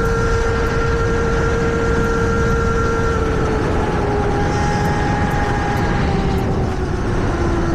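Electric dirt bike conversion's motor whining steadily while riding, its pitch sinking slowly over the last few seconds, over heavy wind rumble on the microphone.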